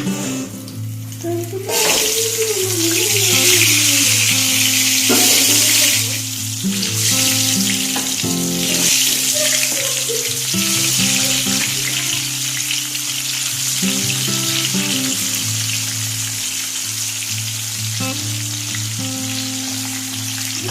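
Food sizzling in hot oil in a pan, a steady hiss that drops away briefly near the start, with background music.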